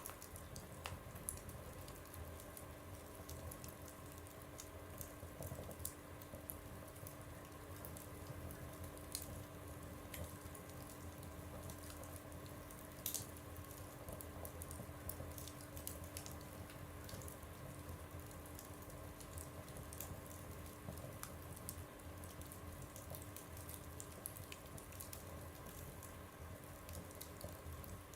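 Wood fire burning in a stove, with faint irregular crackles and pops over a low steady rumble; one sharper pop about thirteen seconds in.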